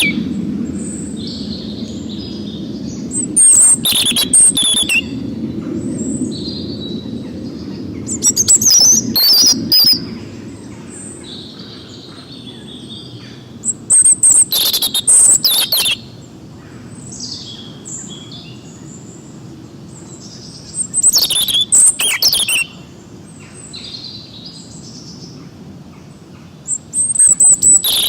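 Songbirds singing in a forest chorus. Loud bursts of rapid, high chattering come every five or six seconds, with softer whistled calls between them, over a low steady background noise.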